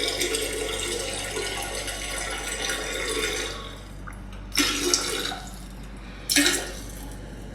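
Running water: a steady splashing hiss that eases off after about three and a half seconds, followed by two short louder gushes.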